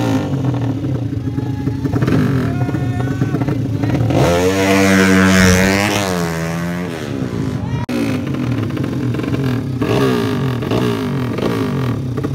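Racing motorcycle engines running and revving. About four seconds in, one bike's engine rises to a loud, steady high-revving note, holds it for about two seconds, then drops in pitch and fades.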